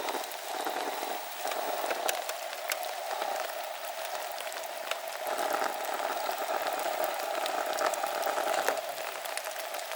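Steady rain falling, a dense hiss of pattering with scattered sharp drop ticks. A steady mid-pitched drone runs under it and swells about five seconds in.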